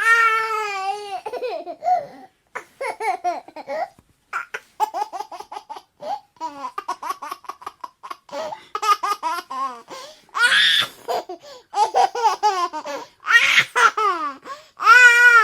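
A small child laughing and babbling in a high voice, in a long run of short calls with bending pitch. Some of them break into quick laughing pulses.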